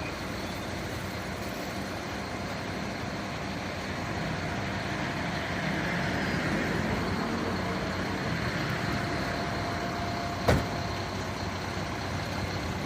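Fire truck engine idling steadily, with one sharp knock about ten seconds in.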